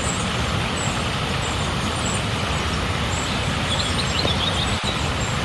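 Steady rushing water, an even roar with no rise or fall, with a few faint high chirps about four seconds in.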